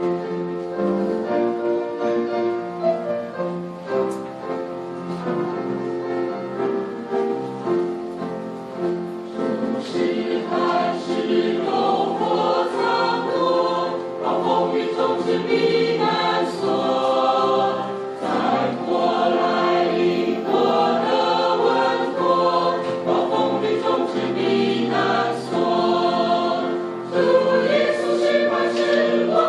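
A recorded choral hymn: a choir singing with instrumental accompaniment, the sound growing fuller about ten seconds in.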